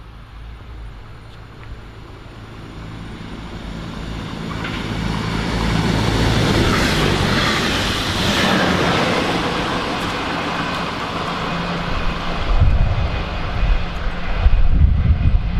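A train approaching and passing close by. Its steady hum swells into a loud rush of running noise about six to nine seconds in, then gives way to uneven low buffeting near the end.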